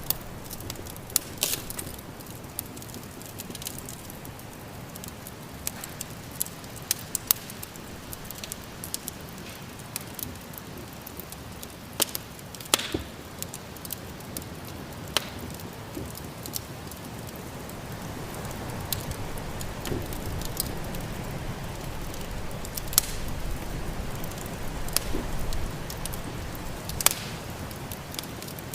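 Wood fire in a fireplace crackling, with irregular sharp pops, several louder ones standing out. Underneath runs the low rushing of snowstorm wind, which swells a little past the middle.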